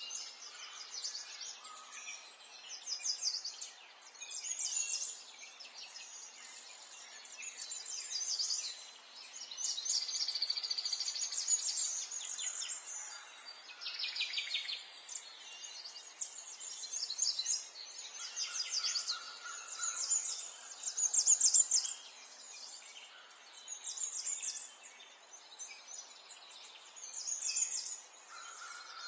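Several birds singing and chirping, short trilled phrases that come and go every couple of seconds over a faint steady background hiss.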